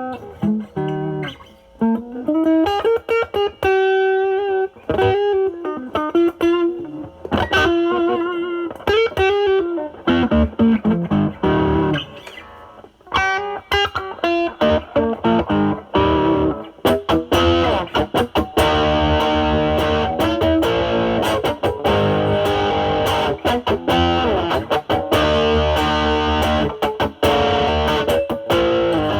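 Semi-hollow electric guitar played through a NOBELS ODR-1 overdrive pedal into a Marshall Valvestate amp on its drive channel, giving a driven, distorted tone. The first half is single-note lead phrases; from about halfway it moves to fuller, sustained chords with more grit.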